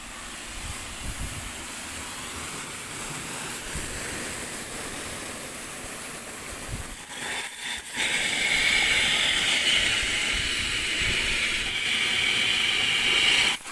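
Steady hiss of a high-pressure cleaning jet on a diesel generator's radiator. It breaks off for a moment about seven and a half seconds in, comes back louder and sharper, and cuts off suddenly near the end.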